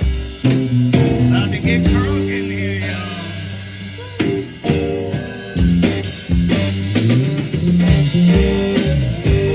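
Band music with guitar, a bass line moving from note to note, and a drum kit keeping the beat.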